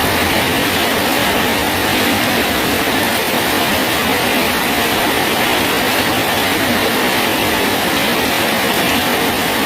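Steady rain falling on a bridge: an even, unbroken hiss.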